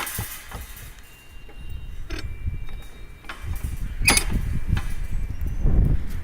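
A sharp knock at the start, then a few metallic clicks about two and four seconds in, the later one ringing briefly, over a low rumble.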